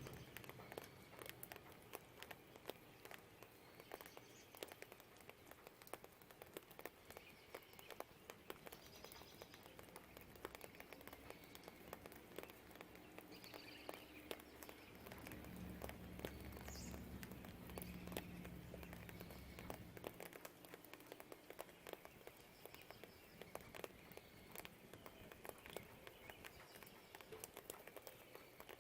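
Light rain dripping and pattering in many small ticks, with a few short bird chirps. A low distant rumble swells in the middle and cuts off about two-thirds of the way in.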